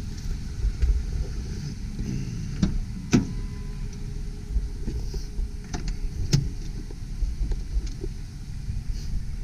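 A few sharp clicks and knocks, the loudest about three seconds in, over a steady low rumble.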